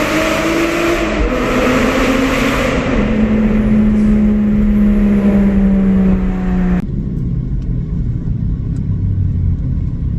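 Muffler-deleted Porsche 987.1 Cayman S flat-six accelerating hard. The note climbs, breaks at a gear change about a second in, climbs again, then holds steady for a few seconds. It drops off suddenly about seven seconds in as the throttle is lifted, leaving a low drone.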